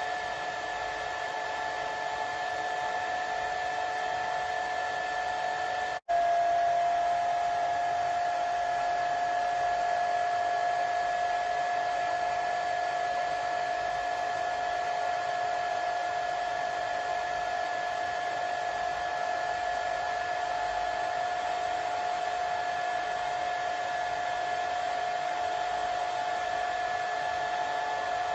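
Hair dryer running steadily: an even rush of air with a steady whine on top. About six seconds in, the sound cuts out for an instant and comes straight back a little louder, its whine slightly lower.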